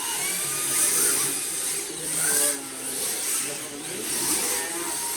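Radio-controlled drift cars sliding around a track: their tyres hiss in repeated surges about every second or so, over the rising and falling whine of their electric motors, with faint chatter underneath.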